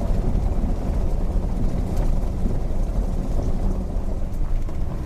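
Jeep Grand Cherokee WK2 driving along a road: a steady low rumble of engine and road noise.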